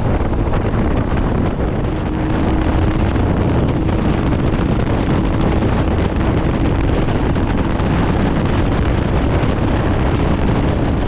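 Royal Enfield Himalayan motorcycle running on the move, under heavy wind rumble on the microphone. The faint engine note steps up in pitch about two seconds in.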